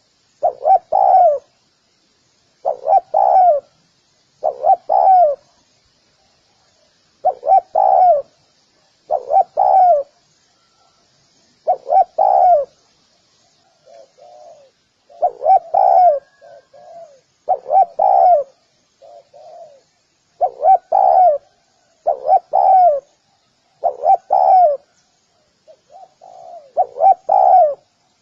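Spotted dove cooing: loud two-part calls repeated about every two seconds, each note falling in pitch, with softer short coos between some of them. Faint high chirping runs underneath.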